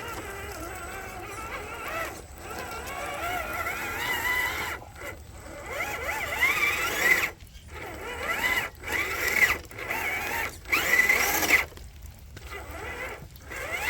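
RC4WD Gelande 2 scale crawler's electric motor and geared drivetrain whining in repeated throttle bursts, the pitch rising and falling as the wheels spin and grip, with short pauses between bursts. The truck is stuck trying to climb a muddy rock, its tires digging into the mud without getting over.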